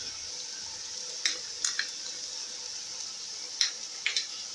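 Chicken and vegetables sizzling steadily in oil in a steel pot, with a few short sharp clicks, about half a dozen, between one and four seconds in.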